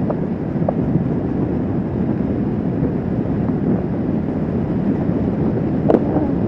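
Steady wind rush on the microphone mixed with the running engine of a Kawasaki Vulcan S 650 parallel-twin cruiser at road speed, with a short click about six seconds in.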